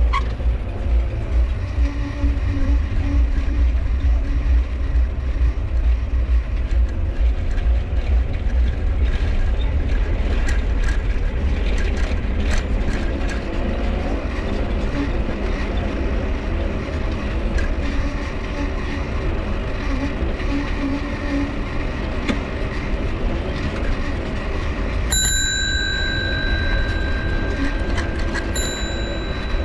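Mifa folding bicycle being ridden: a steady rumble of tyres and wind on the microphone, with rattling clicks from the bike. Near the end a high, steady squeal sets in twice.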